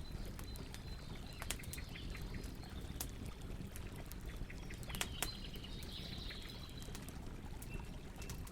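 Campfire burning: a steady low rush with scattered sharp pops and snaps, the loudest about three and five seconds in, and faint high bird chirps behind it.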